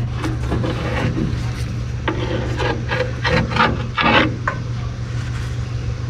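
Hand tools scraping and clicking irregularly against a hydraulic line and its fittings, over a steady low hum.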